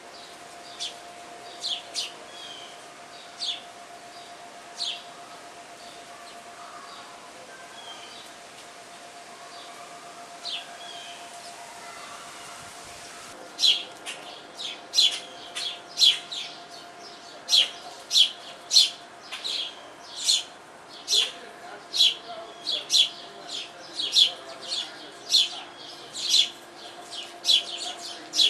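Sparrows chirping: scattered single chirps at first, then from about halfway a steady run of loud, repeated chirps, roughly two a second.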